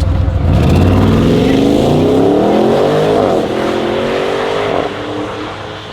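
A performance car accelerating hard, engine pitch climbing steadily, with a quick upshift about three seconds in, then pulling again until the driver lifts off just before five seconds.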